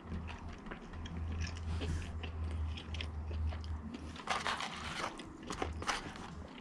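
Close-miked chewing of a chicken nugget, with a few sharper crunchy bites about four seconds in.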